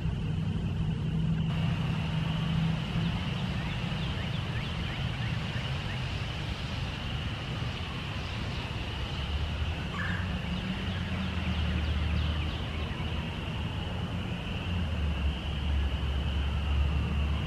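Spring peepers calling in a dense chorus, a continuous high peeping, over a low rumble that grows stronger in the second half.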